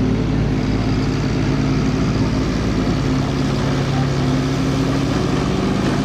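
Several stock truck engines running loudly at once, their pitch shifting a little as they are revved.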